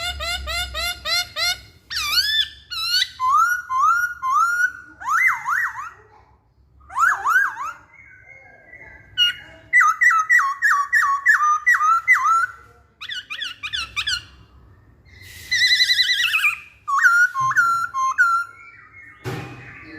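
A laughingthrush (poksay hongkong) singing a varied song of loud, clear whistled phrases: fast runs of repeated notes, rising and falling slurs and trills, separated by short pauses. A harsher, noisy call comes about a second before the end.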